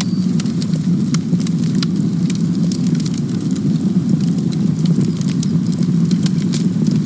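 Campfire burning: a steady low rush of flames with frequent sharp crackles and pops from the wood.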